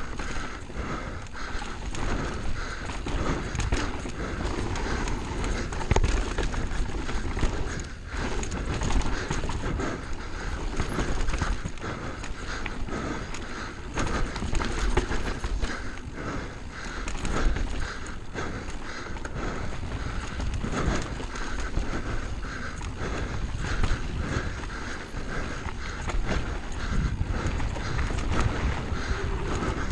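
Downhill mountain bike running fast over rough trail: a constant irregular clatter and rattle of the bike taking rocks and roots, over a heavy low rumble.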